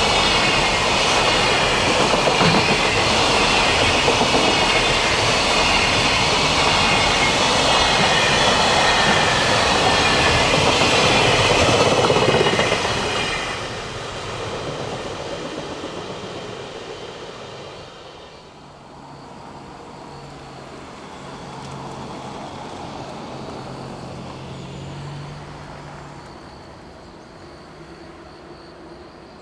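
Container wagons of a freight train rolling past on the rails with a high wheel squeal. About halfway through, the sound falls away as the last wagon passes, leaving a much quieter rumble.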